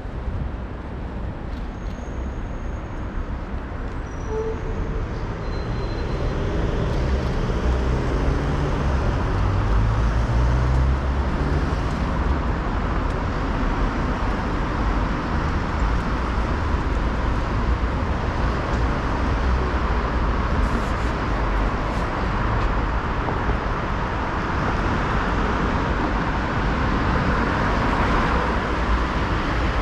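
Road traffic on a busy city street: a steady wash of passing cars and engine rumble, growing louder a few seconds in.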